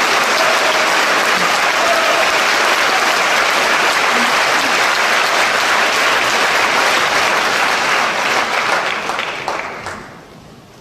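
Theatre audience applauding, steady and loud, then dying away over the last two seconds or so.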